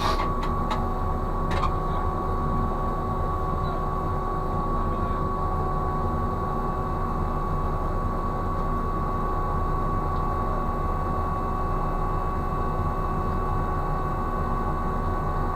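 Steady hum of ship's machinery running, with low droning tones and a constant high whine. A few sharp clicks come in the first couple of seconds.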